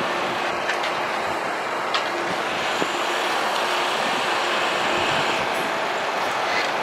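NS Sprinter Lighttrain electric multiple unit pulling away along a station platform: a steady wash of running noise, with a faint high whine that stops about two seconds in and a single click at that moment.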